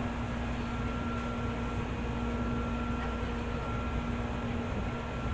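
Interior sound of a 205-series 600-subseries electric train: a steady hum and rumble with one constant low tone and a fainter higher tone.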